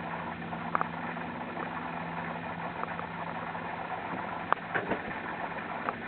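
A steady low mechanical hum with a few light knocks and clicks; the hum fades after about four seconds.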